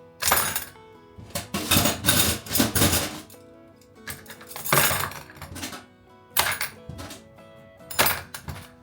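Dishes clattering and clinking in a string of sharp bursts, over soft background music.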